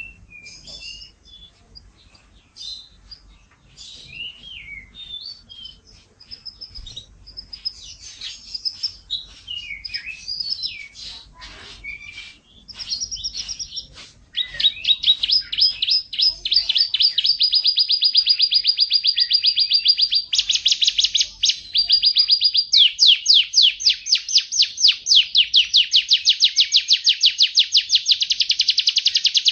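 Yorkshire canary singing: varied chirping, warbling phrases at first, then about halfway through it breaks into loud, long rapid trills that carry on with only brief changes of phrase.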